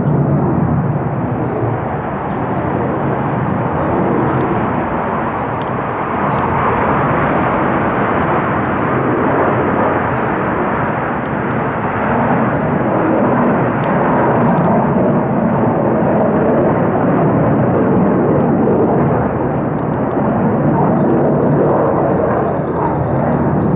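Military fighter jets taking off, their jet engines giving a loud, continuous noise that swells and eases slightly.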